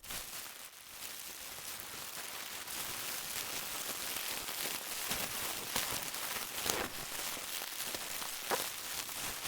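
Plastic being handled: a dense crackling with scattered sharper clicks, played back at its original pitch.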